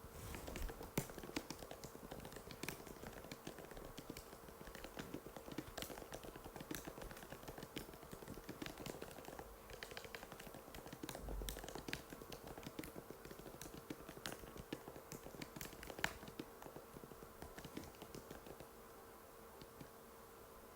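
Fast, continuous typing on an Apple MacBook butterfly keyboard: a dense run of light key clicks with a few louder strikes, stopping shortly before the end, over a faint steady hum.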